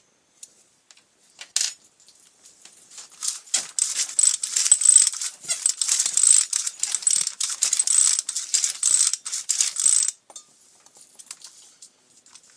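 Dense metallic rattling and clicking, starting in earnest about three seconds in and stopping suddenly near ten seconds, after a few single clicks: small metal parts or hand tools being handled during repair work.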